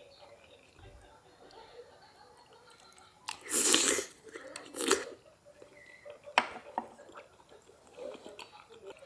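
A person chewing and biting crunchy food, with two loud crunches about three and a half and five seconds in and a couple of sharp clicks a little later.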